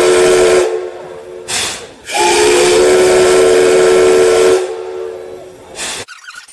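Steam whistle of the JNR Class C11 steam locomotive C11 123 blowing loud, hissing blasts: one ends about half a second in, and a second long blast of about two and a half seconds follows, with short bursts of steam hiss between them. The blasts are steam-whistle signals.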